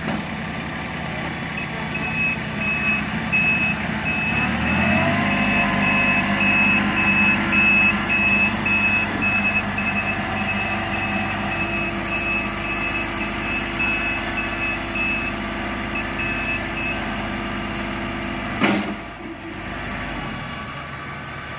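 A work vehicle's engine running on a street repair site, revving up about five seconds in and then holding. Its reversing alarm beeps steadily for most of the time, then stops. A single sharp knock comes near the end.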